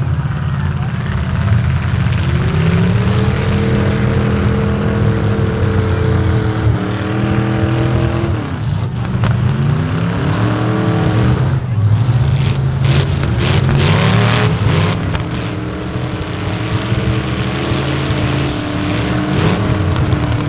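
Several truck engines running hard, revving up and down over and over. A cluster of sharp knocks comes about two-thirds of the way through.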